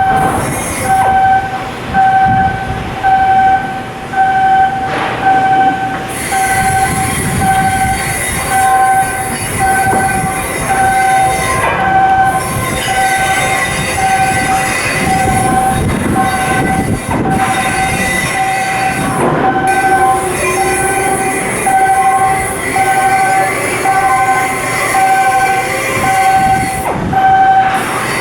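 An electronic warning beeper sounding a steady on-off beep about one and a half times a second, over constant machinery noise with occasional knocks.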